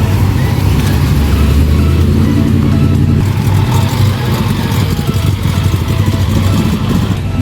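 Car engine running, with electronic background music over it.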